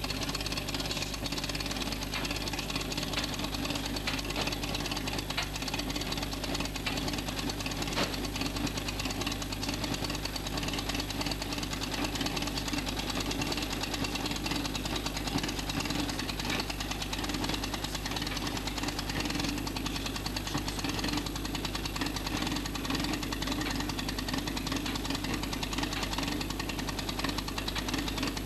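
Polski Fiat 126p's air-cooled two-cylinder engine running steadily.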